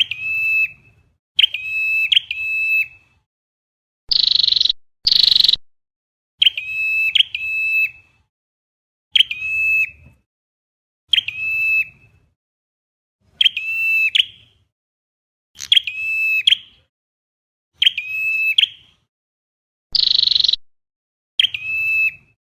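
Flowerpecker calls played as a trapping lure: sharp, high chirps, mostly in pairs, repeating about every two seconds. A louder, harsher buzzy note cuts in about four seconds in and again near the end.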